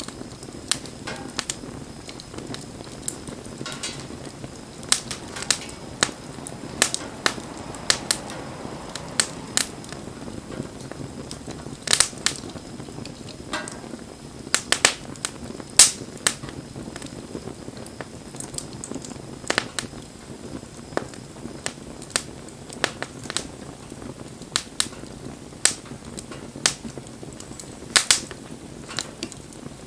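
Wood campfire crackling: a steady low rush of flames with sharp pops and snaps at irregular intervals, a few of them much louder.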